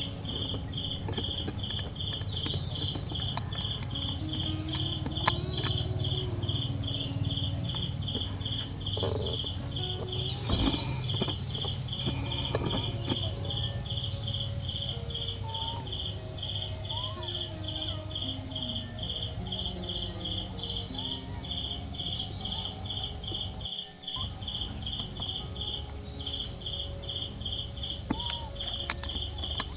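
Insects calling: a steady pulsing chirp, about three pulses a second, over a continuous high-pitched whine, with faint short gliding calls scattered through it.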